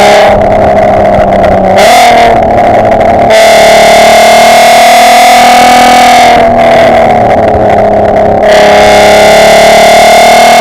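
Mk5 Golf R32's 3.2 VR6 engine heard through a Milltek decat, non-resonated exhaust while driving, loud enough to overload the microphone. The engine pitch holds fairly steady, with a harsher, raspier tone that comes and goes as the throttle is opened and eased off a few times.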